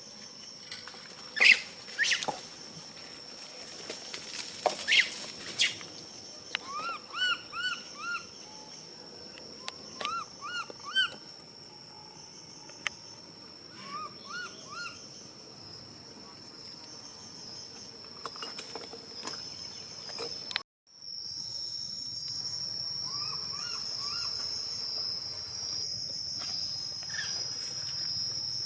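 Steady high-pitched insect drone, with short rising chirping calls in groups of three or four and a few sharp clicks. The sound cuts out for a moment about two-thirds of the way through, then the drone returns louder.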